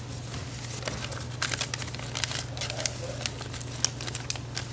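Sheet of origami paper crinkling and crackling in short bursts as it is pushed in and creased while a paper crane is folded, over a steady low hum.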